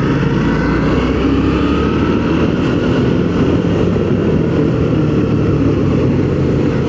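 Motorcycle engine running steadily while riding up a mountain road, with road and wind noise.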